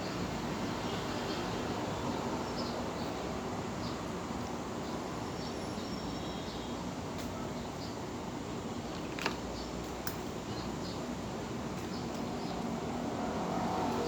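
Steady background noise with a few faint clicks, one sharper click about nine seconds in.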